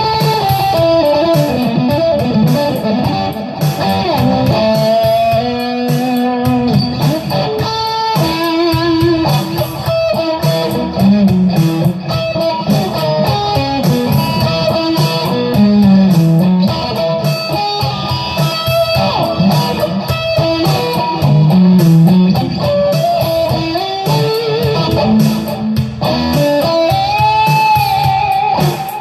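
Electric guitar playing improvised single-note lead lines, running through scale patterns, with a note bent up and back down near the end.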